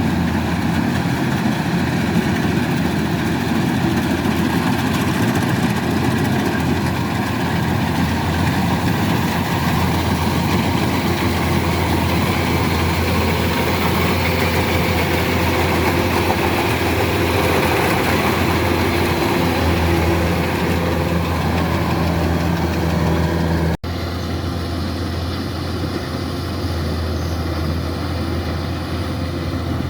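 Kubota DC-105X rice combine harvester's diesel engine running steadily with a low drone. About 24 s in the sound cuts off abruptly for an instant and resumes slightly quieter.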